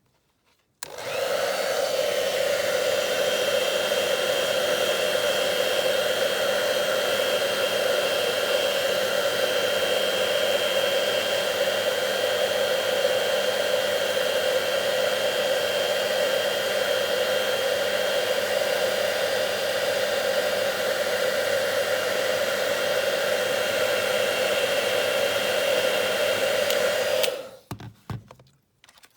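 Handheld hairdryer switched on, blowing steadily with a motor whine for about 26 seconds, then switched off, used to warm a die-cast metal wing before bending it.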